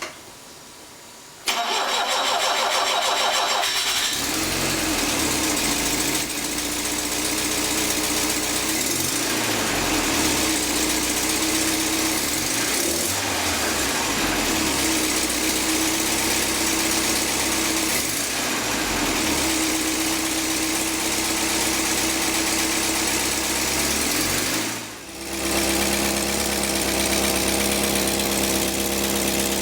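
Peugeot 504 Coupé engine being started: the starter cranks for about two and a half seconds, then the engine catches and runs, with a few brief revs that rise and fall. Near the end the sound drops out briefly, then the engine runs steadily again.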